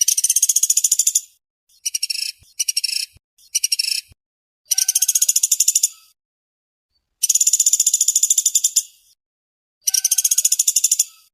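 Pelatuk beras, a small woodpecker, calling in fast, tightly spaced high-pitched rattling trills. The trills come in seven bursts of about half a second to two seconds, separated by short pauses.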